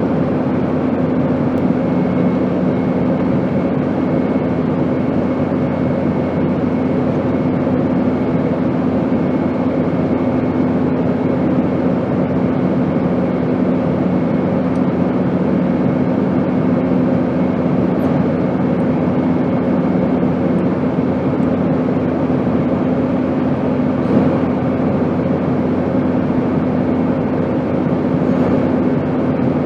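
Airplane noise: a steady, even drone with a constant low hum and a faint higher whine, unchanging throughout.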